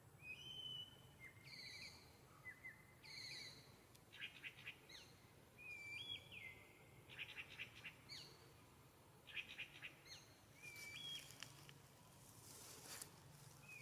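Faint wild bird calls: a series of short high whistled notes, some rising and some held briefly on one pitch, mixed with several quick rattling trills.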